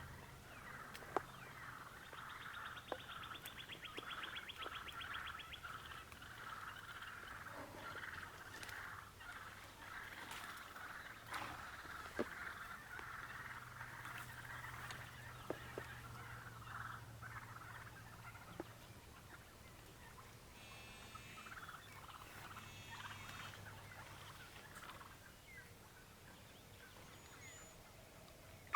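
Wild turkeys gobbling and calling faintly, with a rapid rattling call a few seconds in and a few sharp clicks scattered through.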